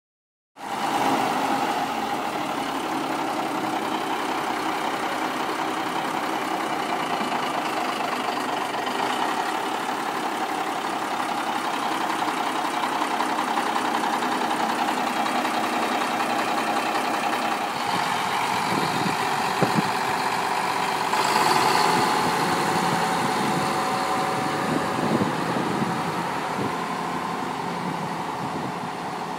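Diesel engine of a 1997 Caterpillar 140H motor grader running steadily at idle, briefly growing louder about two-thirds of the way through.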